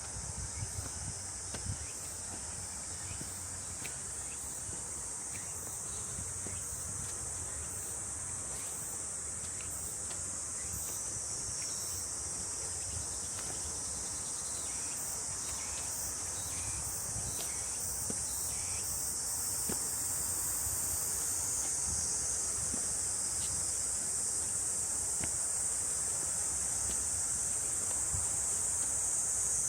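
Cicadas in the forest trees, a continuous high-pitched buzzing drone that grows gradually louder.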